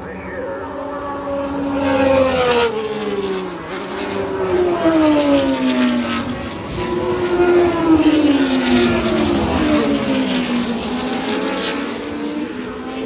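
Historic 1966-1985 Formula One race cars passing one after another at speed, several loud engine notes each dropping in pitch as the car goes by.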